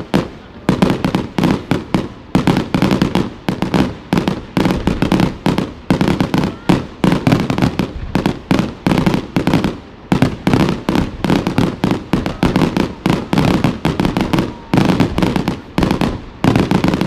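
Fireworks going off in a dense barrage of loud bangs, several a second, with only brief short lulls.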